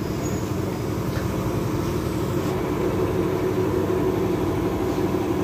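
A steady mechanical hum of an engine or motor running, an even drone that holds throughout.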